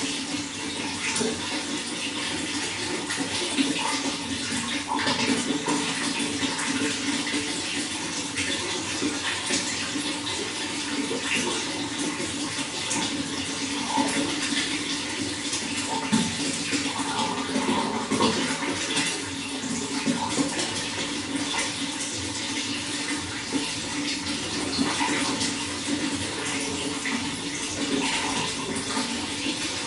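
Running water splashing and gurgling steadily, without letting up.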